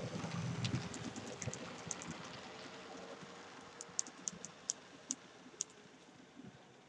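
Model train running on the layout track, its wheels clicking over the rail joints while the rolling sound fades away.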